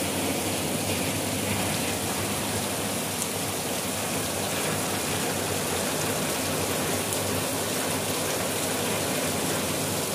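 Rain falling steadily into puddles of muddy water and onto grass: an even, dense hiss of drops hitting the water.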